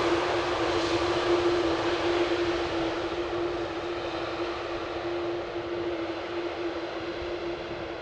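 Airbus A330 jet engines running, a steady rushing noise with a constant droning tone, gradually fading as the aircraft moves away.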